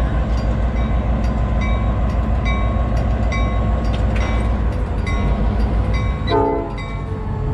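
GP38 diesel locomotive running close by with a heavy steady rumble, its bell ringing about twice a second as it moves to couple onto the train. A brief lower tone sounds near the end.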